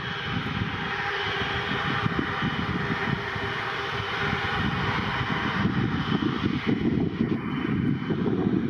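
Jet aircraft engines running with a steady roar and a faint whine over it.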